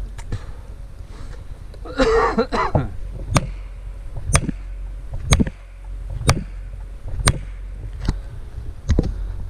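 A man coughs once, then a felling wedge is struck about seven times, sharp strikes roughly one a second, as it is driven into the cut.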